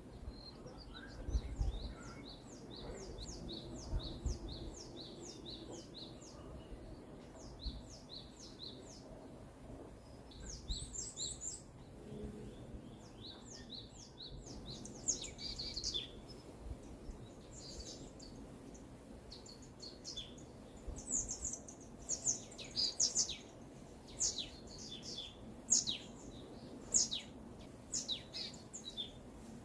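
Forest birdsong. One bird repeats a rapid run of high, downward-sweeping notes, about three or four a second, for the first nine seconds. Scattered high chirps and calls from several birds follow, with a couple of low thumps in the first few seconds.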